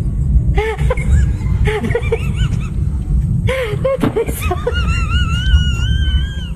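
High-pitched snickering laughter over a steady low background, ending in a long wavering squeal in the last couple of seconds.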